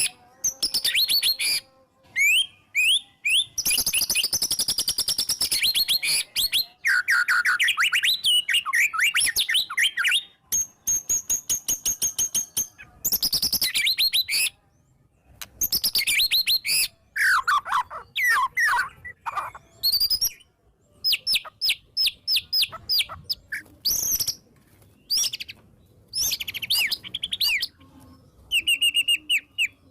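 White-rumped shama (murai batu) singing a long, varied song packed with mimicked phrases. Rapid runs of repeated short notes alternate with quick whistled slides and warbled bursts, with brief pauses between phrases.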